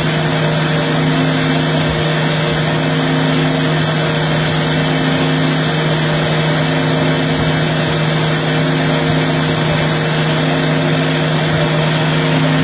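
Roll-turning CNC lathe running steadily: a constant machine hum with a higher tone that comes and goes every couple of seconds, over an even hiss.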